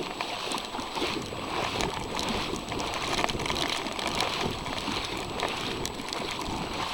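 Harbor floodwater washing and splashing over a flooded park path as a wave comes in, a steady rushing with small splashes. The water is the harbor spilling into the park at high tide during a hurricane.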